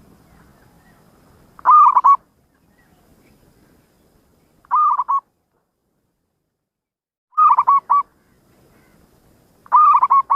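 Zebra dove (perkutut) cooing: four short phrases, each a quick run of a few notes, repeated about every two and a half to three seconds.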